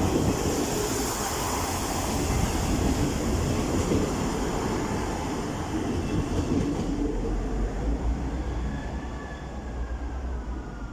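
Class 158 diesel multiple unit pulling away from the platform, its engine running under power and its wheels rolling over the rails, gradually getting quieter. A low steady hum comes in about seven seconds in.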